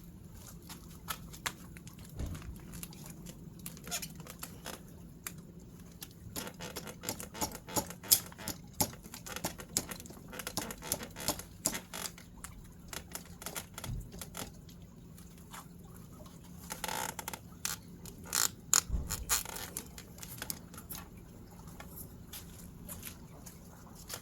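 Irregular light clicks and taps, busiest in the middle, over a faint steady hum.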